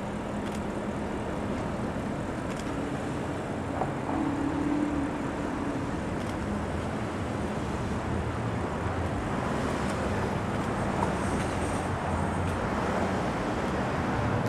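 A car engine running close by, over steady outdoor traffic noise, with a few faint light knocks.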